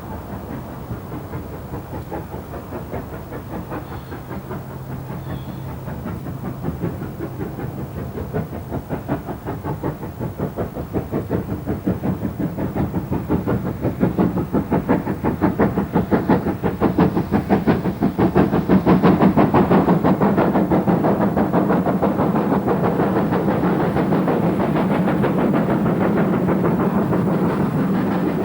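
GWR Castle-class four-cylinder 4-6-0 steam locomotive Nunney Castle working a train, its rapid, even exhaust beats growing louder as it approaches over about twenty seconds, then holding steady.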